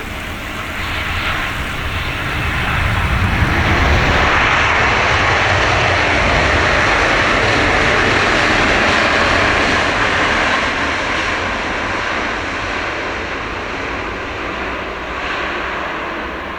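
Jet engines of a Boeing 787-8 airliner landing. The noise swells over the first few seconds, holds loud for several seconds as the aircraft passes close, then eases off.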